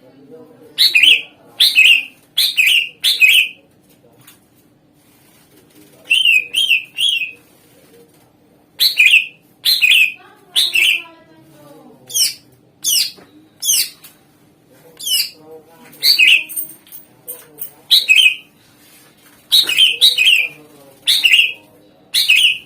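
Green leafbird (cucak ijo) singing loudly: sharp, high notes that sweep downward, delivered in quick runs of two to four with short pauses between runs.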